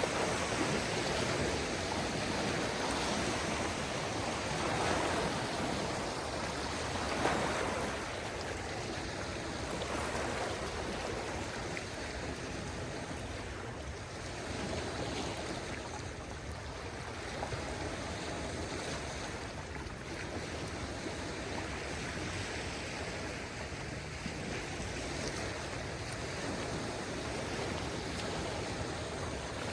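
Calm sea: small waves washing onto a beach in a steady wash of water, swelling a little about five and seven seconds in.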